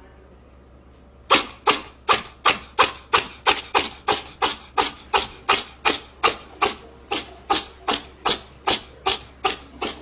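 A steady run of sharp knocks, about three a second, starting a little over a second in.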